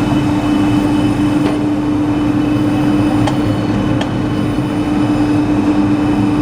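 Industrial segmented-pad sanding machine running steadily: a constant low hum over a dense rumble and hiss, with a few faint ticks.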